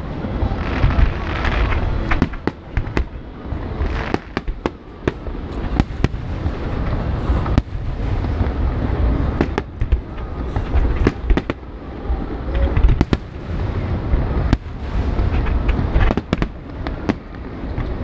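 Fireworks display going off in quick succession: deep booms of shell bursts overlapping with many sharp cracks, several a second, with no let-up.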